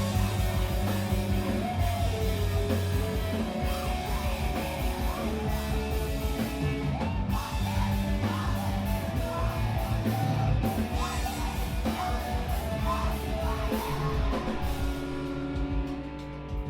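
A screamo band playing live: distorted electric guitars, bass and a drum kit crash in together at the start, with yelled vocals over them. Near the end the band eases off and guitar notes are left ringing.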